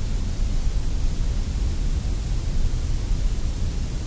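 Sandblast cabinet nozzle blasting abrasive against the paint and sticker on a steel Tonka toy truck panel: a steady hiss over a low rumble, stripping it to bare metal.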